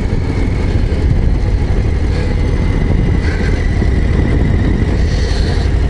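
Harley-Davidson Low Rider ST's Milwaukee-Eight 117 V-twin running steadily under way, a dense low rumble.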